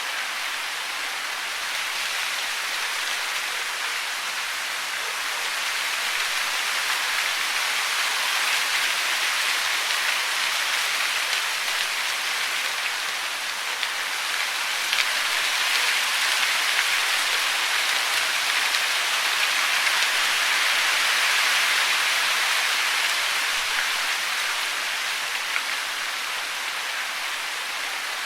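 Steady hiss of rushing, falling water, swelling and easing slowly in loudness.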